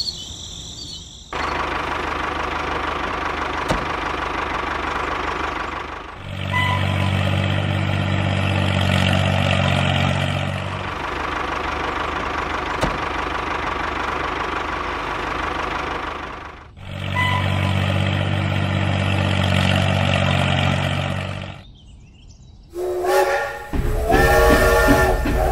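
Train sound effects: a train running, broken twice by a long, low whistle blast of about four seconds each, then the rapid rhythmic chuffing of a steam locomotive starting a couple of seconds before the end.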